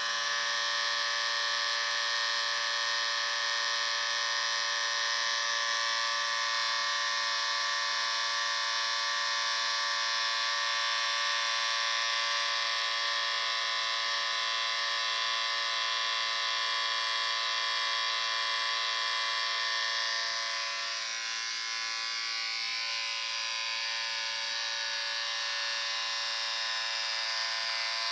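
Electric shaver running with a steady hum. About twenty seconds in it gets slightly quieter and its tone shifts a little.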